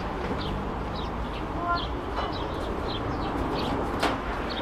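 Small birds chirping over and over in short, high, falling notes, over a steady low background murmur, with one sharp click about four seconds in.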